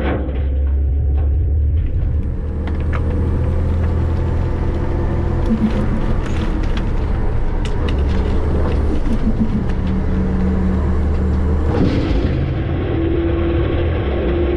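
Front-load garbage truck heard from inside its hopper: the engine and drivetrain rumble steadily, with scattered rattles and knocks for most of the stretch and brief hydraulic whines, one held near the end.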